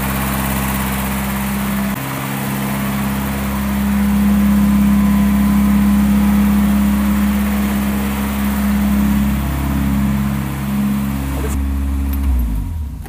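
Volkswagen Voyage's carburetted AP 1.6 four-cylinder engine running steadily, echoing in the garage and a little louder in the middle. Near the end it is switched off, and the running sound winds down and stops.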